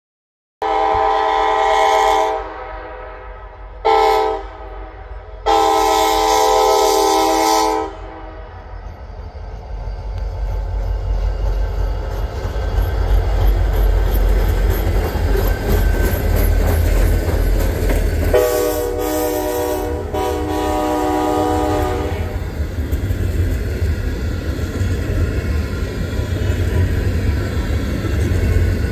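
Alaska Railroad freight train's diesel locomotives sounding their air horn, long, short, long, then the low rumble of the locomotives and tank cars rolling past, with another long horn blast about two-thirds of the way through.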